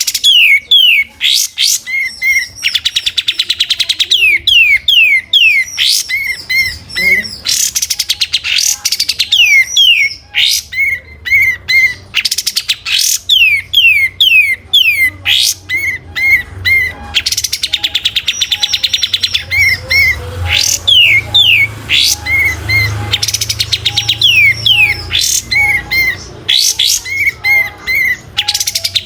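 Kapas tembak songbird singing non-stop in a fast, busy song: repeated short chip notes, quick falling whistled sweeps and rapid buzzy trills, over and over.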